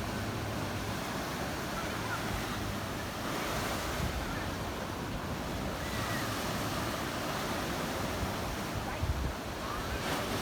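Black Sea surf washing onto the shore: a steady rush of waves that swells and eases every few seconds, with wind rumbling on the microphone.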